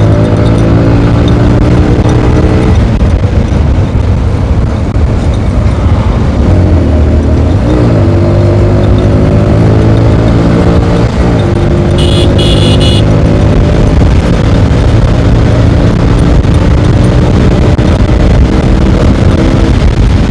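TVS Apache RTR 160 4V's single-cylinder engine pulling hard under acceleration, its pitch climbing steadily and dropping sharply at each upshift, with heavy wind rush over the rider's microphone. About twelve seconds in, a short high-pitched beep sounds.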